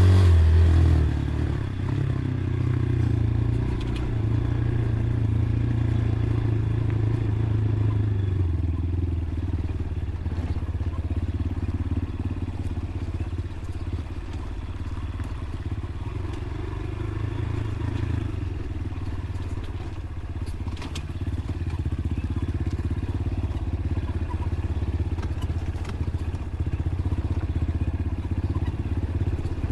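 Dirt bike engine running while riding. The engine note drops about a second in as the throttle comes off, then runs steadily at a lower pitch, easing off through the middle and picking up again later, with a few light clicks and rattles.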